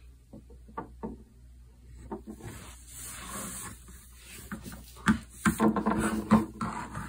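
Plastic toy horse figure tapped and moved over a wooden floor, giving light clicks and knocks. From about five seconds in the clicks come more densely, with a child's voice vocalizing alongside.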